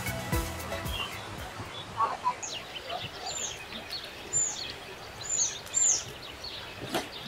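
Birds calling: a series of about four short high calls, each dropping in pitch, with fainter scattered chirps around them and a couple of sharp clicks near the end.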